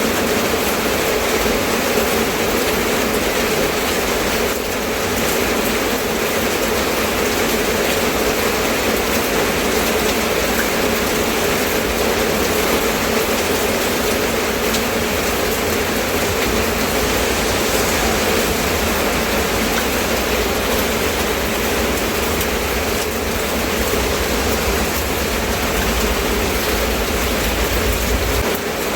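Steady rain falling, a dense even hiss with no breaks. A low rumble grows under it near the end.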